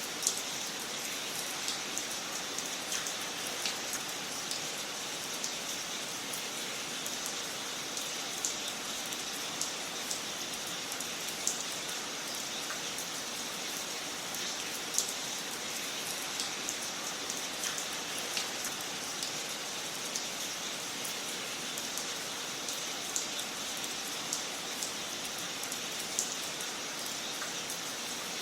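Wood fire crackling in a fireplace: a steady hiss with sharp pops and snaps at irregular intervals.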